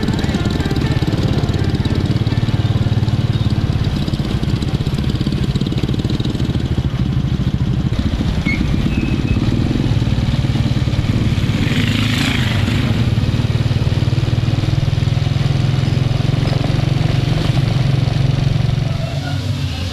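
Motorcycle engine running steadily while riding, with a brief hiss about twelve seconds in.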